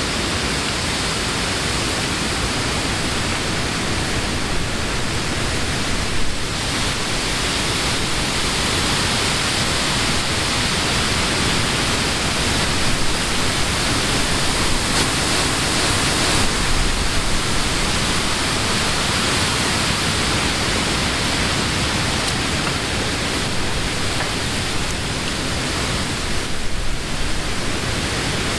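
Summer wind blowing through leafy trees: a steady rushing hiss of leaves that swells and eases in gusts, fullest through the middle and dipping briefly about six seconds in and again near the end.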